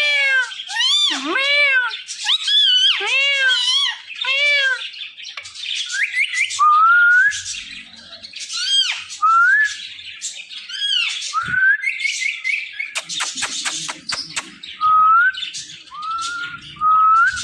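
Parrot calling: a string of harsh arched calls in the first five seconds, then short rising whistled notes repeated again and again, with a quick run of clicks about thirteen seconds in.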